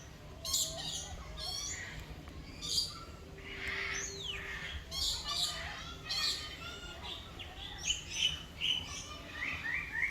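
Many birds of several kinds chirping and calling at once, with short overlapping chirps and trills. A falling whistle comes about four seconds in, and a quick run of repeated notes begins near the end.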